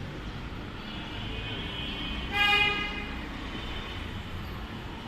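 Road traffic rumbling steadily, with a vehicle horn sounding once, loudly and briefly, about halfway through, and a fainter held horn tone just before it.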